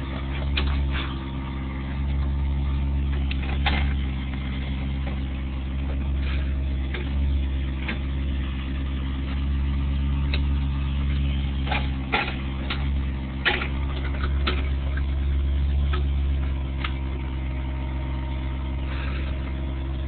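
Excavator's diesel engine running steadily, with scattered short knocks and clanks as it digs at the roots of a tree.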